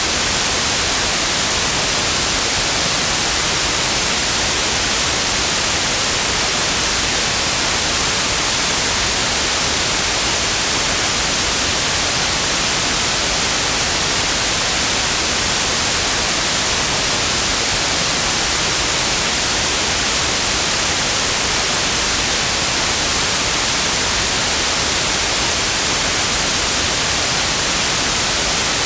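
Synthetic white noise: a steady, even hiss across all pitches, strongest in the highs, unchanging throughout.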